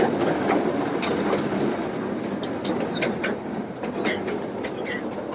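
Train rolling along its track, heard from aboard: a steady rumble with a few light clicks from the wheels, slowly getting quieter.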